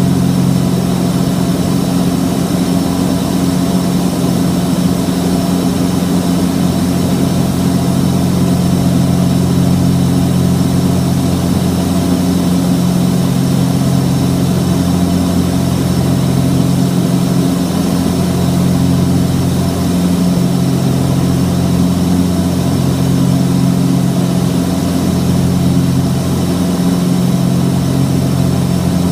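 The twin piston engines and propellers of a Cessna 421 running steadily with a deep drone. From partway through, one of the low tones takes on a slow, regular pulsing beat.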